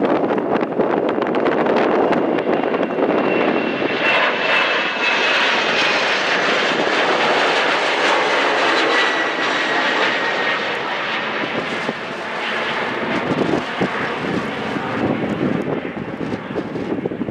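Jet airliner's engines as it passes close by: a dense rushing noise with a high whine that slides slightly down in pitch through the middle, easing off a little near the end.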